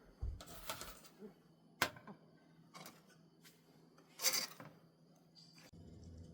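Intermittent handling sounds: a few short rustles and one sharp click, with a low steady hum starting near the end.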